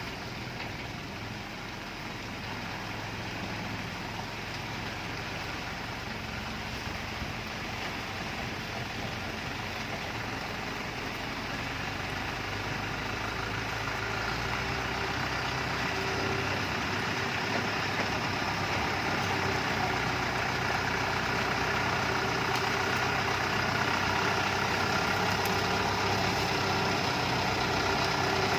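Heavy truck engine running steadily, growing gradually louder.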